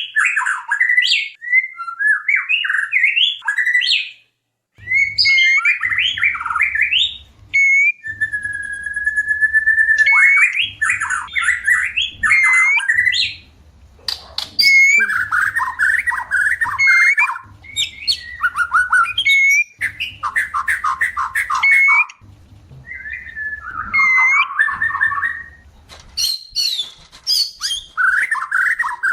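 White-rumped shama (murai batu) singing in breeding condition. A rich, varied run of whistled phrases and fast chattering trills, with one long, level whistle held for about two seconds partway through.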